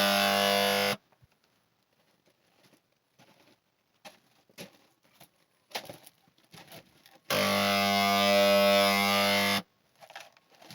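Electric paint sprayer buzzing steadily, cut off about a second in, then triggered again for about two seconds in the second half; faint clicks and taps between the runs.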